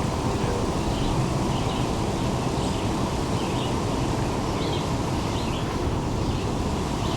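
A small bird chirping repeatedly, about once a second, over a steady low rumble.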